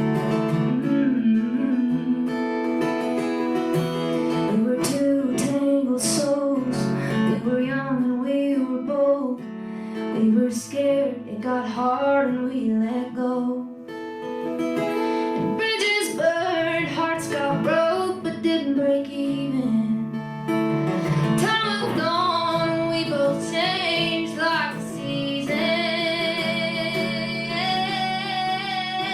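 Acoustic guitar playing an instrumental passage of a song, picked and strummed.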